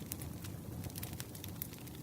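Campfire crackling: irregular sharp pops and snaps of burning wood over a steady low rush of flame.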